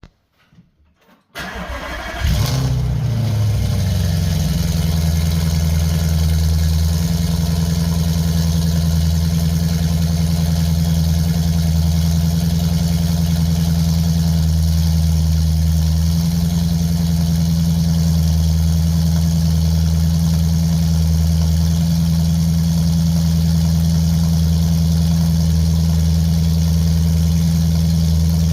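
Audi S5's 4.2-litre V8, exhausting through straight pipes with an X-pipe, cold-starting: the starter cranks briefly about a second in, the engine catches, and its revs fall within a couple of seconds to a steady cold idle.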